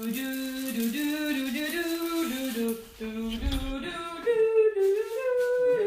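Singing: a voice carrying a melody in held notes that step up and down in pitch, with a short break about three seconds in and louder, higher notes near the end.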